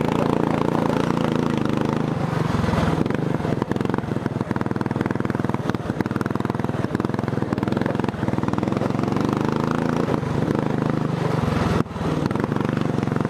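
Racing lawn tractor's engine running under way, with a faulty transmission that the rider thinks is skipping gears and needs replacing. The engine sound dips briefly near the end.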